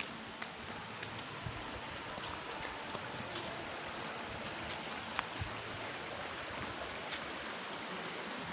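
Steady rush of water cascading down a rocky forest stream at a waterfall, with a few faint ticks over it.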